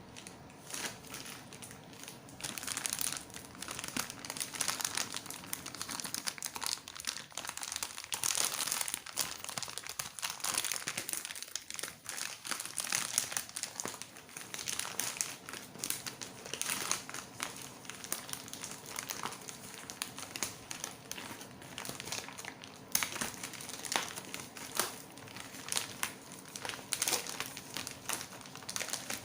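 Packaging crinkling and rustling as it is handled and opened, in irregular crackly bursts throughout.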